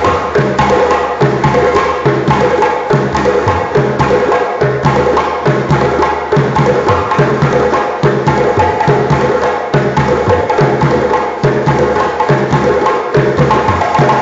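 African percussion ensemble playing a steady, fast rhythm of hand-drum strokes, with a sharp, woody clacking part on top.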